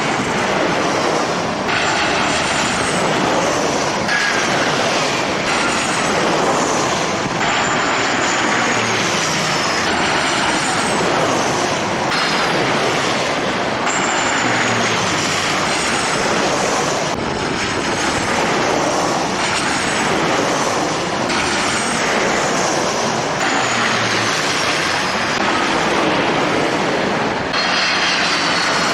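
Jet airliner engines running, with high turbine whines that fall in pitch over a dense rush of engine noise. The sound changes abruptly every couple of seconds, as short clips follow one another.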